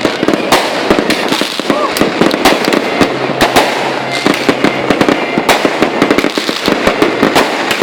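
Dense fireworks display: many bangs and crackles overlapping without a break, with louder single reports every second or so.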